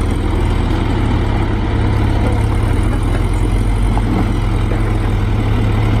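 Loaded dump truck's engine running steadily as the truck moves slowly over rough gravel ground, a deep, even hum with noise above it.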